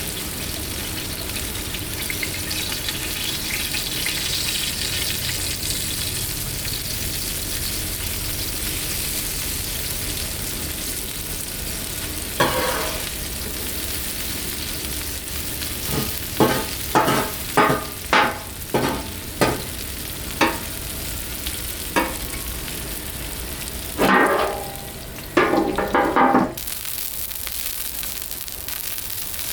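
Potato wedges, broccoli and carrots sizzling steadily on a Blackstone flat-top griddle. In the second half the food is stirred: a run of short, sharp knocks and scrapes of the stirring utensil on the griddle top, then a couple of longer scrapes near the end.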